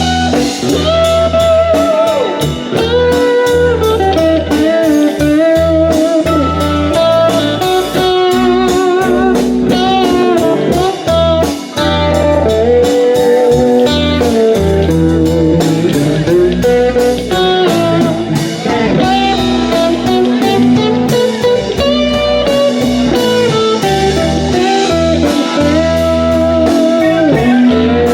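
Live blues band in an instrumental break: a lead guitar plays a solo of sliding, bending notes over bass and drums.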